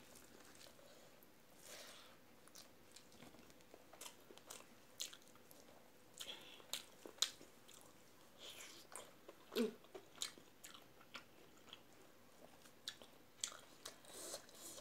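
Close mouth sounds of a person eating rice and curry by hand: soft, wet chewing with many short smacking clicks, faint throughout.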